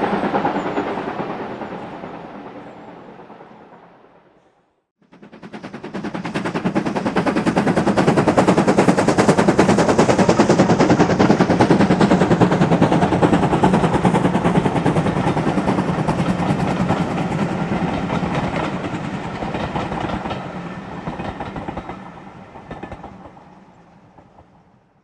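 A steam locomotive passes working hard, its exhaust beats coming fast and close together, building to a peak and then fading away as it goes. The first few seconds hold the tail of another passing train dying away before a cut.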